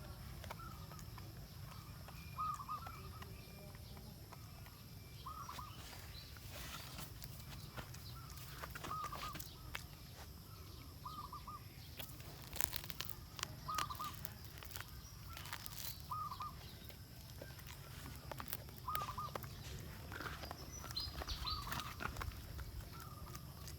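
A bird calling a short note again and again, about every two seconds, over a steady low background noise, with scattered sharp clicks and crackles in between.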